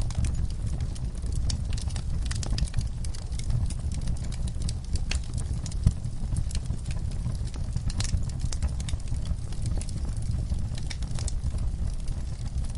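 Wood fire burning in a fireplace, with a steady low rumble and irregular crackles and pops; one pop is louder about six seconds in.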